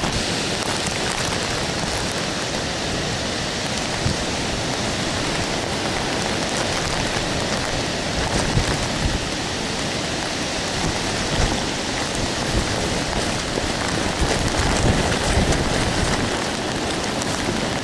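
Steady hurricane rain, an even hiss with a few brief louder swells.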